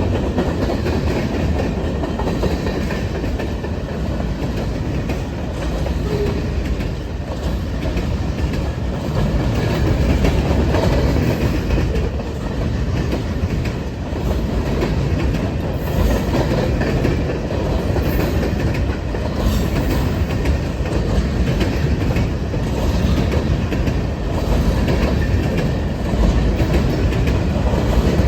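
Norfolk Southern freight train cars rolling past, a steady noise of wheels on the rails that holds at an even level throughout.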